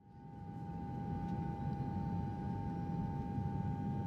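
Airplane in-flight engine drone sound effect: a steady low rumble under a steady high hum, fading in over about the first second.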